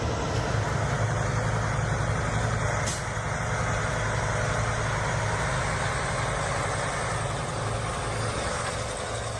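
Heavy truck engine running steadily, a low even hum over continuous road noise.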